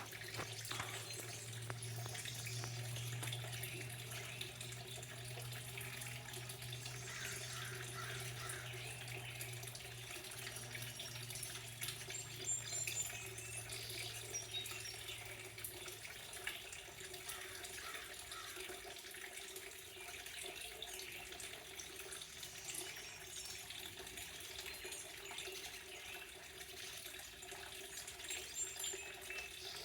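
Steady running water, with faint, brief high bird chirps now and then. A low steady hum underneath fades out about halfway through.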